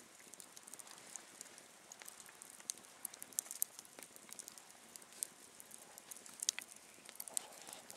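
Campfire crackling, with faint, irregular sharp pops and snaps.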